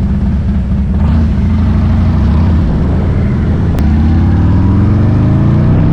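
Harley-Davidson V-twin motorcycle running through its aftermarket exhaust with a steady low note, then accelerating away from about halfway in, the engine pitch rising steadily.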